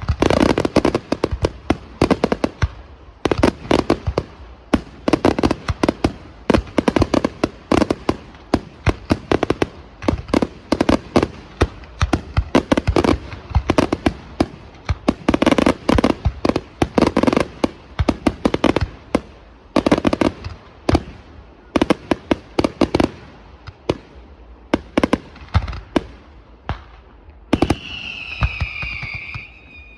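Aerial fireworks display: a rapid, irregular barrage of loud bangs from bursting shells, several a second at its busiest. Near the end a high whistle falling slightly in pitch rises over the bangs.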